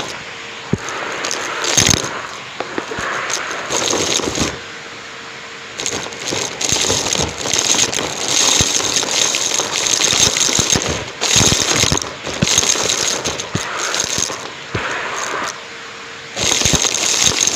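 Numatic James canister vacuum cleaner, miked up close, sucking up debris: irregular bursts of crunching, crackling and rattling, with a steady hum showing through in the short gaps between them.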